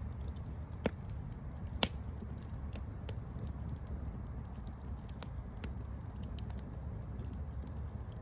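Campfire burning with a steady low rumble and scattered sharp crackles, two louder pops about a second and two seconds in.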